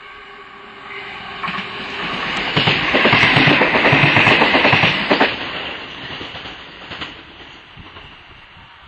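Passenger train passing at speed: a rising rumble with the wheels clicking over rail joints, loudest about three to five seconds in, then fading away.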